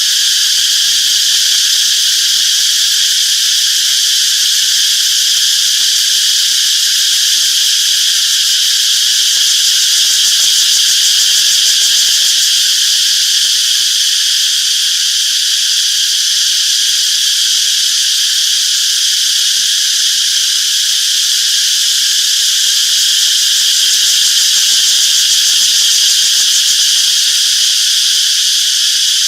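Cicadas chirping in a dense, unbroken chorus: a loud, steady, high-pitched buzz that never pauses or changes.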